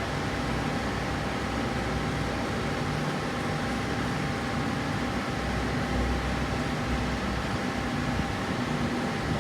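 A steady mechanical hum with a faint constant whine, unchanging throughout, like a running fan or similar machine.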